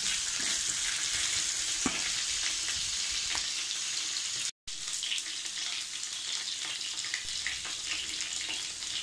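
Ginger-garlic paste, curry leaves and mustard and fenugreek seeds sizzling in hot oil in a pan, stirred with a wooden spatula that scrapes now and then. The sizzle drops out for an instant about halfway through.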